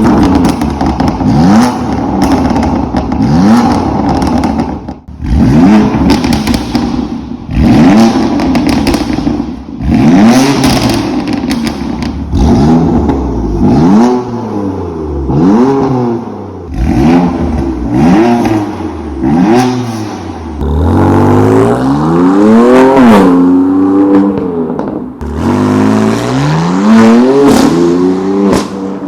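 BMW M2 engines with aftermarket Veleno catback exhausts being revved in a sound check. There are about a dozen short blips, each a quick rise and fall in pitch, then in the second half a few longer revs that climb higher before dropping back.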